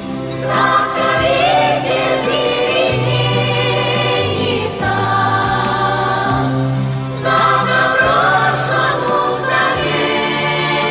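Choir singing a melody over instrumental backing, with held bass notes that change every second or so.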